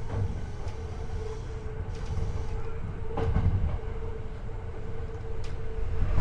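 Hankyu 8300 series electric train running, recorded from the car floor above its bogie: steady wheel-and-track rumble with a steady hum. A rail-joint clack sounds about three seconds in, and a fainter click comes near the end.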